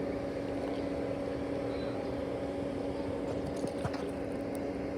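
A steady mechanical hum of constant pitch over a low rumble, with a few faint ticks.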